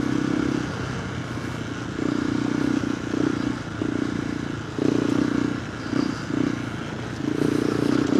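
KTM 390 Adventure R's single-cylinder engine through a Norifumi Whoops slip-on exhaust with its DB killer fitted, ridden on a dirt trail. The throttle is opened and rolled off again and again, so the exhaust note keeps swelling and dropping back.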